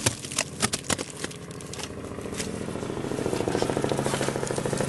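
A few sharp wooden clicks and knocks as wooden hive parts are handled, then an engine's hum that grows steadily louder over the last few seconds.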